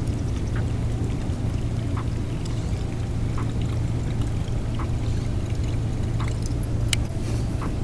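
Water trickling and lapping around a kayak over a steady low hum, with faint ticks about every second and a half and a sharper click near the end.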